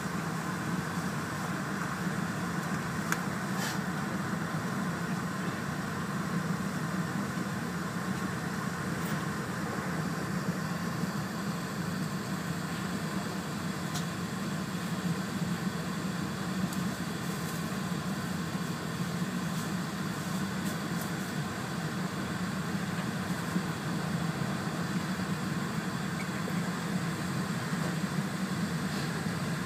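Steady running noise inside the cabin of a Tohoku Shinkansen E4 series bilevel train moving at speed: a low hum under a steady hiss, with a few faint clicks.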